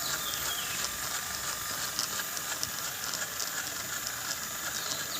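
Small electric gear motors of a homemade RC 4×4 tractor running, a steady hiss with quick, irregular clicking from the gearboxes.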